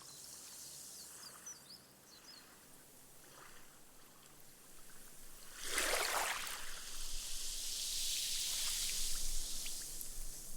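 Small sea wave breaking on a sandy beach about halfway in, then a steady hiss as the foamy wash runs up the sand and soaks in, fizzing away.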